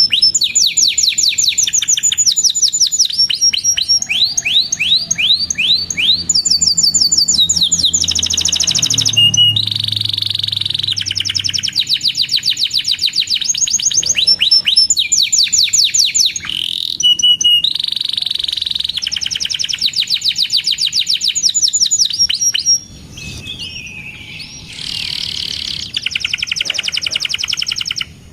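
Canary singing long, fast trills, rapid runs of repeated high chirping notes, each run lasting a few seconds before switching to a new trill. After about 23 seconds the song turns quieter and more broken.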